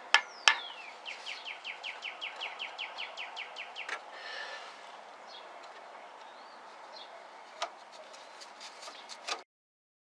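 A songbird trilling a fast run of short, slightly falling notes, about six a second for some three seconds, outdoors. Sharp clicks and taps come before it and again near the end, the loudest two in the first half-second, and then the sound cuts off abruptly.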